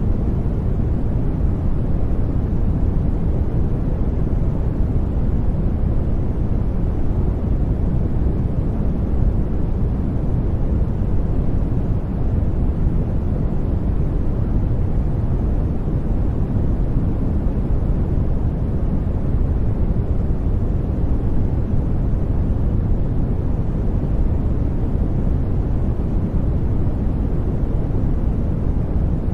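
Brown noise: a steady, deep rushing hiss, heaviest in the bass and thinning out toward the treble, with no changes or events.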